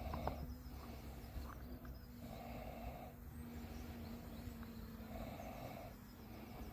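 A person's breathing close to the microphone, one soft breath about every two to three seconds, over a steady low hum.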